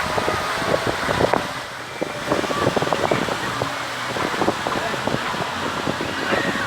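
Outdoor seafront ambience: wind buffeting the microphone over a steady rush of traffic, with scattered distant voices.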